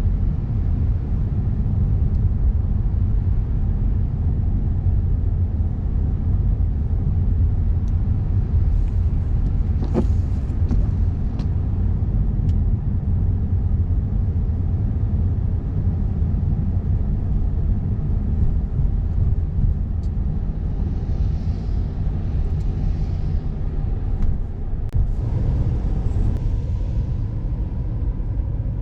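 Steady low rumble of a car driving, tyre and engine noise heard from inside the vehicle on an icy winter road. A sharp click or knock stands out about ten seconds in, with a few fainter ones later.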